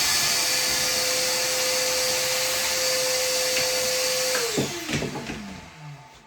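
Vacuum cleaner motor running with a steady whine and loud hiss, switched off about four and a half seconds in and winding down to a stop.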